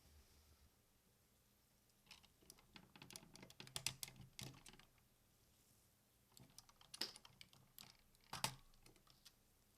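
Faint clicks and taps of hard plastic toy parts being handled and fitted on a combining robot toy, in two clusters: one about two seconds in and another about six and a half seconds in.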